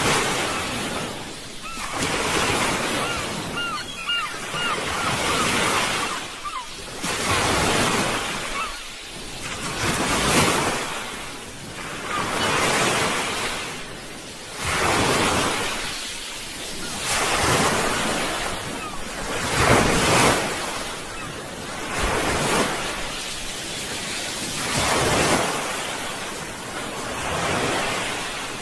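Sea waves breaking and washing ashore, the surf swelling and falling away about every two to three seconds.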